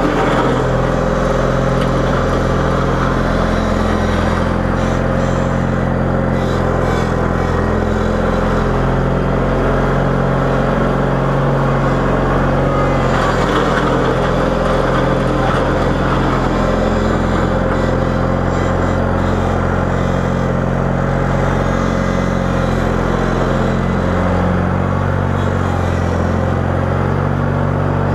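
Small engine of a 318 garden tractor running steadily while plowing snow, its pitch holding nearly even throughout.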